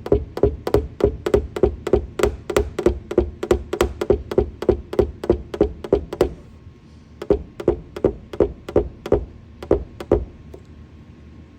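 Paintless dent repair tapping on a car's roof panel: quick, even knocks at about four a second, then slower, scattered knocks from about six seconds in, as the dent's high spots are knocked down.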